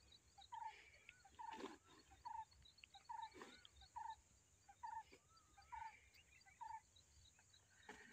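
Faint outdoor quiet with a bird repeating a short call a little faster than once a second, other birds chirping faintly, and a couple of soft rustles.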